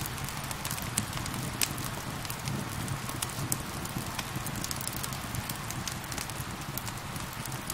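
Crackling fire with frequent sharp, irregular pops over a steady hiss of falling rain.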